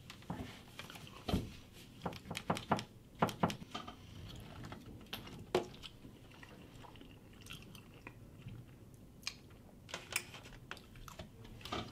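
A person chewing a bite of blueberry pie close to the microphone, with scattered short clicks and taps of a fork cutting into the crust and plate.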